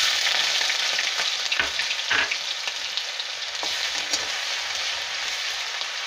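Ginger-garlic paste sizzling and crackling in hot oil in a kadhai, a steady frying hiss with a few louder pops about two seconds in.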